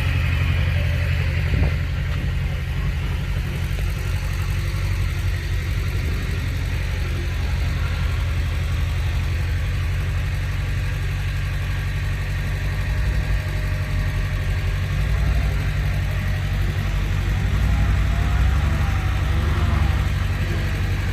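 Heavy diesel engine of earthmoving equipment (a bulldozer or dump truck) running steadily with a deep rumble, with a single knock about two seconds in and a slight swell near the end.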